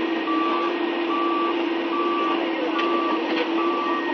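Excavator's travel alarm beeping steadily, about one short beep a second, over the machine's running engine with a steady whine.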